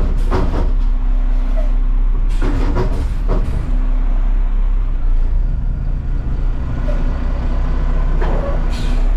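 Front-load garbage truck's diesel engine running steadily, heard from inside the cab, with two brief louder bursts in the first few seconds.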